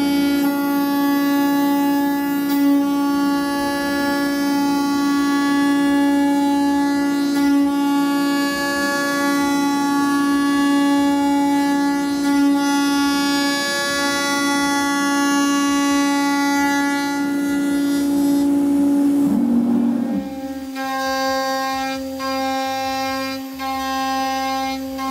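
MultiCam 3000 series CNC router running, its spindle giving a steady high whine with many overtones as the bit cuts holes through the table top. Shortly before the end the pitch dips briefly, and the whine then carries on a little quieter.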